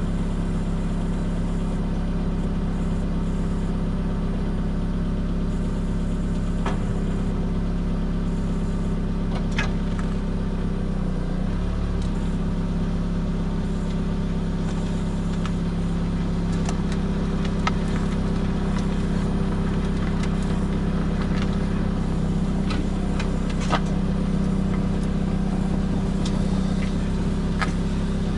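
A car's running and road noise heard from under the rear bumper while driving: a steady low drone with scattered small ticks. Once, about two-thirds of the way in, a small knock comes from the rear suspension. This is the abnormal noise being hunted, quieter here than it sounds inside the cabin.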